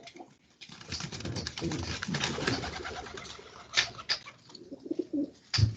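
Pigeons cooing, coming through a call participant's open microphone.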